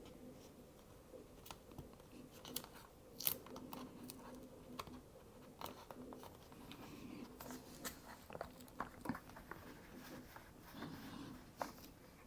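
Faint, irregular small plastic clicks and crackles of tiny keyboard parts being pressed and fitted on a laptop keyboard by hand, with the sharpest click about three seconds in.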